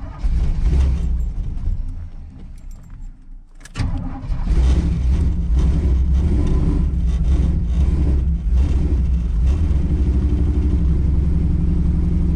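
Cammed Chevy small-block V8 cold-starting with no choke: it catches, falters and nearly dies, then catches again about four seconds in and keeps running with a choppy, lopey idle, held up by feeding it fuel.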